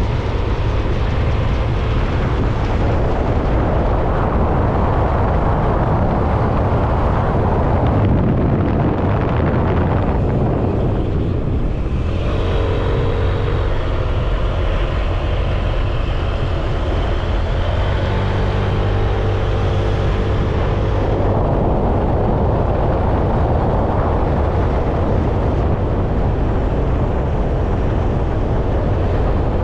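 Motorcycle engine running with wind and road noise rushing past the microphone while riding. For several seconds in the middle the rush eases and the engine's tone comes through more clearly.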